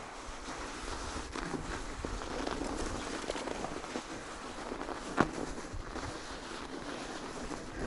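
Footsteps of a person walking on snow, with one sharper click about five seconds in.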